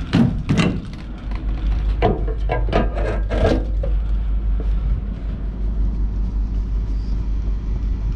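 A series of sharp knocks over the first few seconds, as a semi-truck's air lines are handled during a drop and hook, over the steady low rumble of the idling diesel truck, which carries on alone afterwards.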